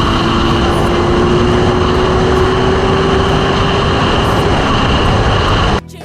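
Motorcycle riding at speed: heavy wind rush over the microphone, with an engine note climbing slowly as the bike accelerates. Near the end it cuts off abruptly and music starts.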